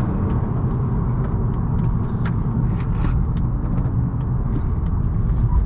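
A 2018 Honda Accord 1.5T Sport driving at speed: its turbocharged 1.5-litre four-cylinder runs under a steady low rumble of road and tyre noise, with scattered light ticks.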